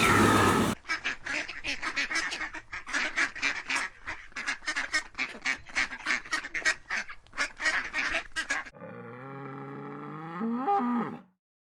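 Waterfowl calling: a rapid run of short, harsh quack-like calls, several a second, for about eight seconds. Then one longer drawn-out call that rises near its end and cuts off.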